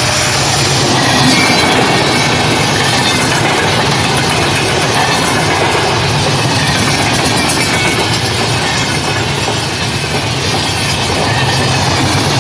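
Passenger train coaches running past at speed, a loud steady rush with wheels clattering on the rails.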